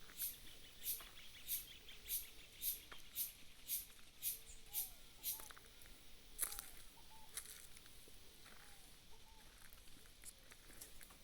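Animal calls: a sharp, high-pitched call repeated about twice a second for the first five seconds, then a few soft, lower chirps.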